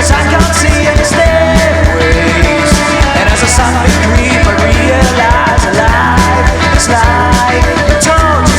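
Rock band playing live: drums keep a steady beat under a heavy bass, with a melody line weaving over them.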